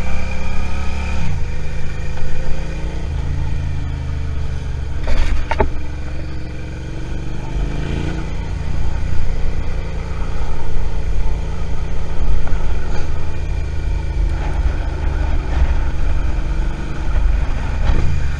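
Suzuki SV650's V-twin engine running under way, its pitch rising and falling several times as the rider speeds up, eases off and changes gear, over a steady low rumble. A few sharp clicks come about five seconds in.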